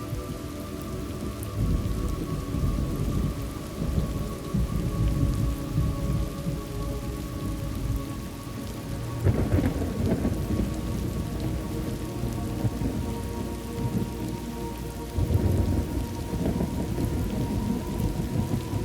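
Thunderstorm ambience: steady rain with rolling rumbles of thunder, swelling louder about nine seconds in and again around fifteen seconds.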